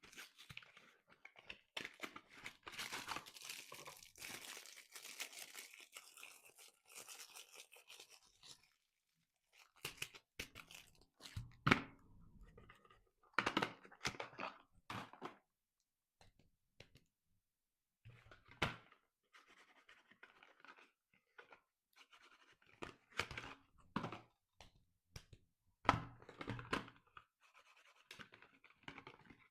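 Soap wrapper being torn open and crinkled by hand: about eight seconds of steady tearing and rustling, then short separate bursts of rustling with a few taps.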